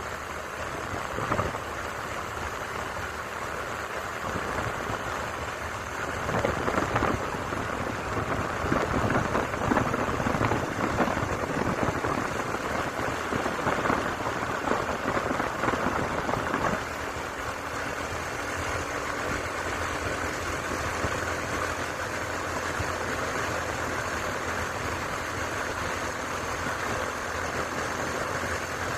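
Steady rushing noise of a vehicle travelling along a wet road, with tyre hiss and engine. It is louder for about ten seconds in the middle, then settles to a lower, even rush with a faint steady hum.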